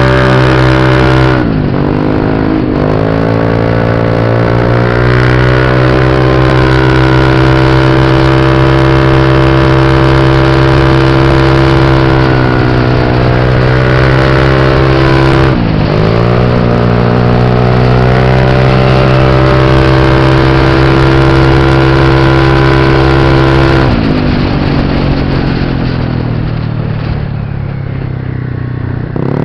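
Motorbike engine running at steady high revs under way. The pitch dips sharply and recovers twice, a couple of seconds in and about halfway through. It then sinks gradually over the last few seconds as the bike slows, and picks up again at the very end.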